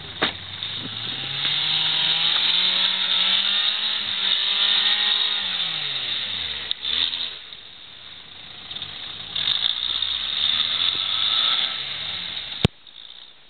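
Suzuki Vitara's engine revving hard under load on a snowy climb: the pitch rises for a few seconds, falls away, then rises again, over a steady hiss. It cuts off suddenly with a click near the end.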